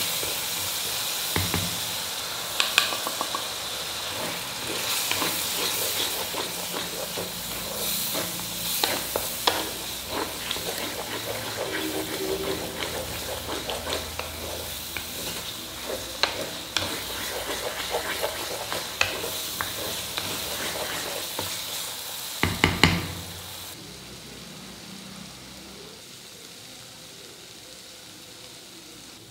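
Onion and tomato masala sizzling in oil in a stone pot while a spatula stirs it, scraping and knocking against the pot. Near the end, after a few louder knocks, the sound drops to a faint hiss.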